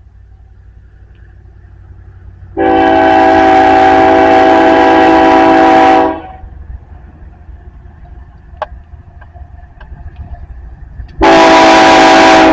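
BNSF diesel locomotive air horn sounding two long blasts, each a steady chord of several notes. The first lasts about three and a half seconds; the second starts some five seconds later.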